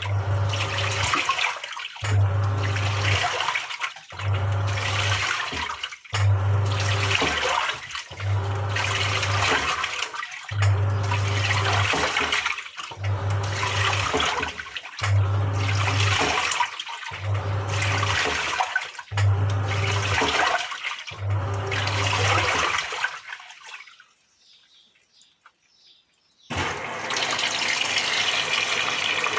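Samsung top-loading washing machine agitating: the wash motor hums in short strokes about every two seconds, with water sloshing in the drum each time. The strokes stop about 23 seconds in, and after a few seconds of near silence water starts pouring into the tub steadily.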